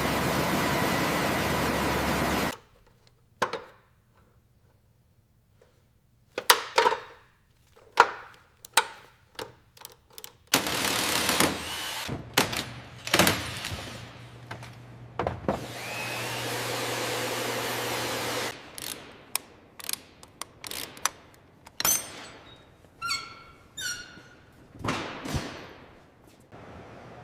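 Workshop tool sounds: a loud steady mechanical noise cuts off suddenly about two seconds in. After it come many separate knocks and clunks of tools on metal, two stretches of steady power-tool whir a few seconds long, and a few short squeaks near the end.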